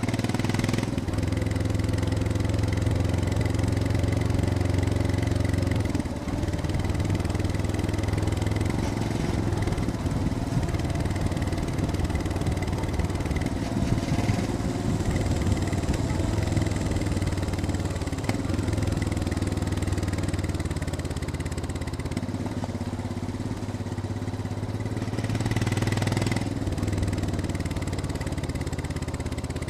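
Royal Enfield Scram 411's single-cylinder engine running on the move on a downhill ride. It keeps a steady note that dips about six seconds in and swells again near the end.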